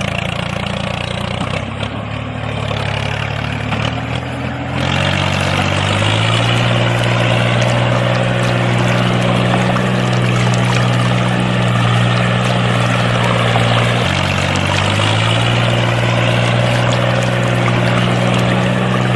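Small DC-motor mini water pumps running with a steady hum, water pouring and splashing from their outlets. The hum steps up in pitch about five seconds in as the water flow grows, and dips briefly near the end before picking up again.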